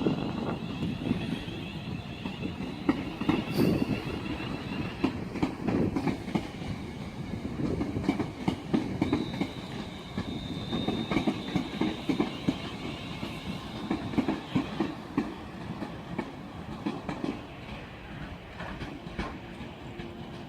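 Class 350 electric multiple unit pulling out, its wheels clacking in an irregular run of knocks over rail joints and points above a steady rumble, with a thin electric whine over the first few seconds.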